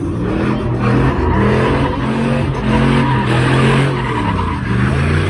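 Vehicle engine revving up and down with tyres squealing, as in a burnout.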